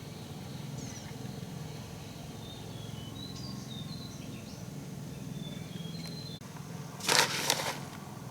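Small birds chirping over a steady low hum, with a loud, noisy crackling burst about seven seconds in.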